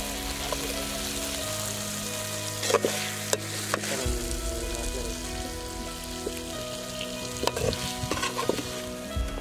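Chicken pieces sizzling as they fry in a wide metal pan, stirred with a metal ladle. The ladle clinks against the pan a few times, loudest about three seconds in and again near the end.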